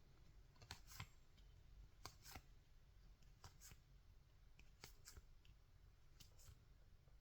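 Faint clicks of 2024 Topps Series 2 baseball cards being flipped through one at a time, a soft pair of ticks about every second and a half.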